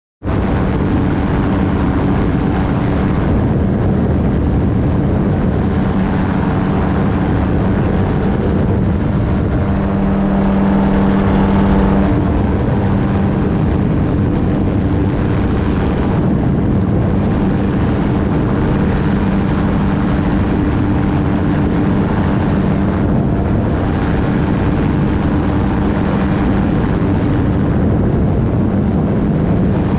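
A gyrocopter's engine and pusher propeller running steadily in flight, a constant loud drone with wind rush. The engine note swells slightly for a couple of seconds about ten seconds in.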